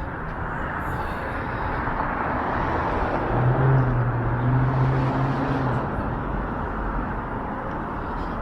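A road vehicle passing on a city street: tyre and engine noise builds to its loudest around the middle and fades, with a low steady engine hum while it is closest.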